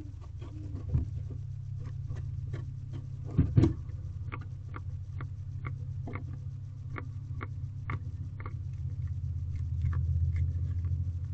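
Barn owl moving about inside a wooden nest box: a couple of heavy thumps, then a run of sharp clicks at about two a second, over a steady low hum.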